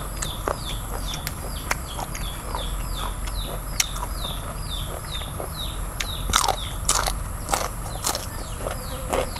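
A bird chirping steadily in the background, about three short high notes a second, each falling in pitch. Over it come sharp clicks and crunches of eating sea snails close to the microphone, louder and more frequent in the second half.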